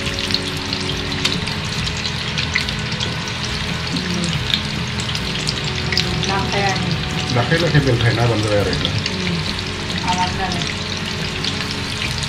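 Breaded chicken pieces deep-frying in hot oil in a pan: a steady, crackling sizzle, the pieces being turned in the oil with a slotted spatula.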